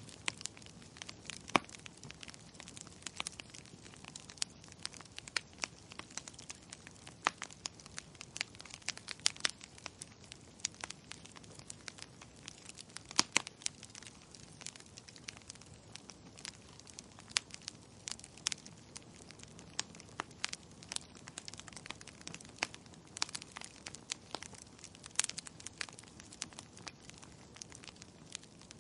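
Wood fire crackling in a fireplace: irregular sharp snaps and pops, several a second, over a steady soft hiss.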